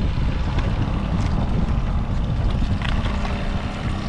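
Fishing boat's motor running steadily at trolling speed, with wind rumbling on the microphone.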